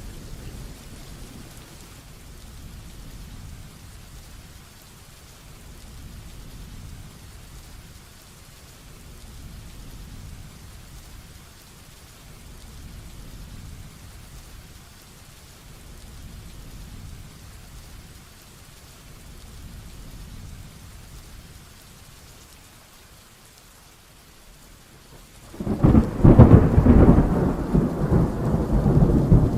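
Heavy rain falling steadily, with a low thunder rumble dying away at first. Near the end a sudden loud thunderclap breaks in, and its crackling rumble goes on.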